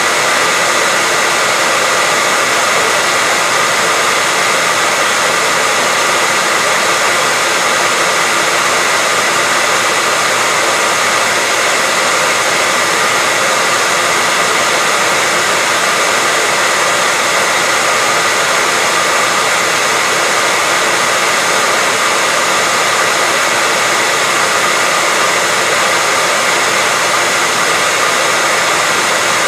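Hairdryer running steadily, an even rushing blow of air with a steady high whine, unchanging throughout.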